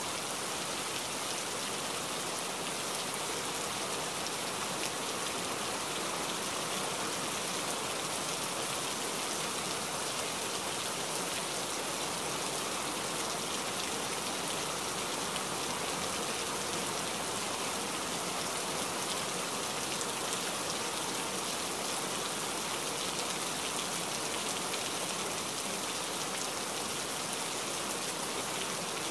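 Steady rain falling: an even, unbroken hiss with no pauses or changes.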